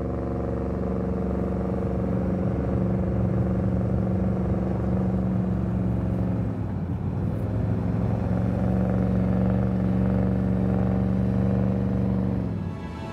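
Porsche Cayenne's V8 engine running at steady low revs under heavy load while towing a 285-tonne Airbus A380. The note wavers briefly in the middle, then holds and drops away near the end.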